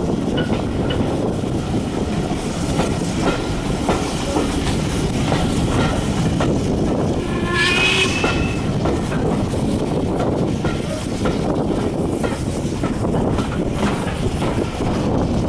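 Steam-hauled heritage railway carriage rolling along: a steady rumble with wheels clicking over rail joints. About halfway through comes a brief high-pitched whistle-like squeal.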